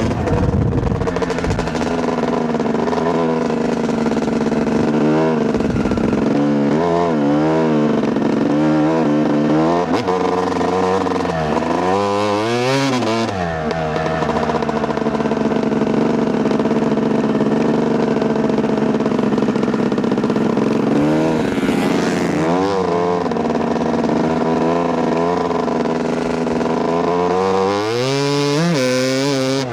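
2008 Yamaha YZ250 single-cylinder two-stroke dirt bike engine under way, its pitch rising and falling as the throttle is worked, with several sharp climbs as it is opened up hard, the biggest near the middle and near the end.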